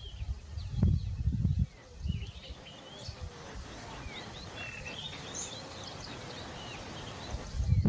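Bokmakierie giving short whistled calls, scattered and fairly faint, with low rumbling gusts of wind on the microphone about a second in and again near the end.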